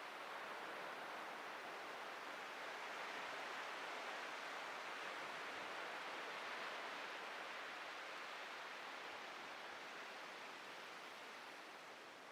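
Atlantic surf breaking on a beach: a steady hiss of waves that swells a little through the middle and eases off near the end.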